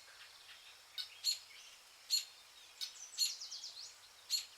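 Birds calling: short, high chirps every half second to a second, with a brief warbling trill about three seconds in, over a faint background hiss.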